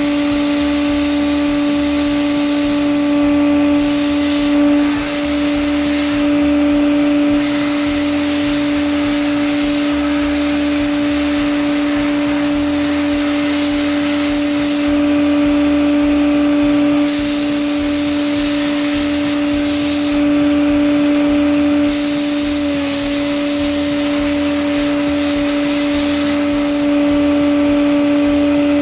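Bead blasting cabinet running: a continuous hiss of blasting air and media over a steady machine hum, the hiss changing slightly every few seconds.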